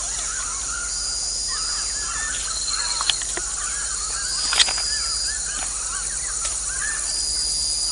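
A large flock of birds calling, many short overlapping chirps going on throughout.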